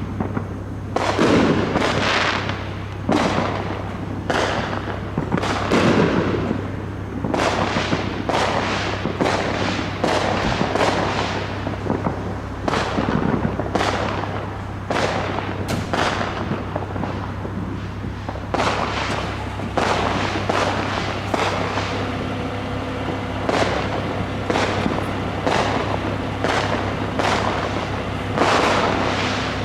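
Fireworks going off one after another, a string of sharp bangs and crackles about once or twice a second, over a steady low hum.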